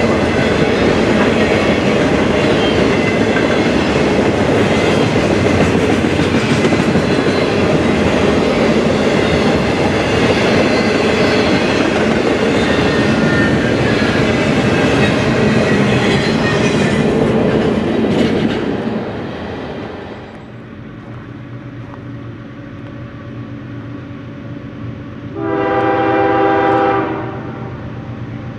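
Intermodal freight train rolling past close by, a steady loud clatter of steel wheels on rail under trailer and double-stack container flatcars, which dies away about 19 seconds in. Later an approaching train sounds its horn in one blast of about a second and a half.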